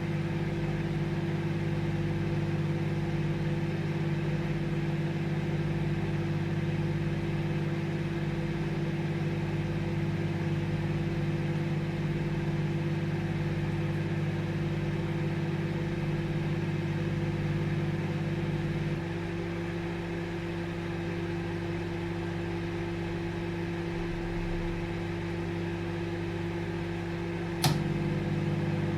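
Microwave oven running with a steady hum. About two-thirds of the way through, the deeper part of the hum drops out and it goes a little quieter, then a sharp click near the end brings the fuller hum back.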